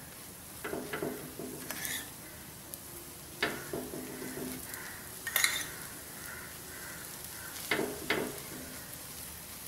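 Dosa batter sizzling faintly on a hot tawa while idli podi paste is spread over it by hand, with a few scattered knocks and scrapes against the pan.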